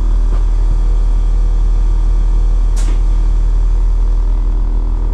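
Steady low hum of a train's engine, with one short sharp hiss about three seconds in.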